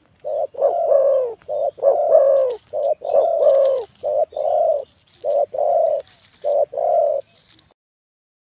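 Spotted dove cooing: a series of deep, repeated coo phrases, each a short note followed by a longer one, stopping near the end.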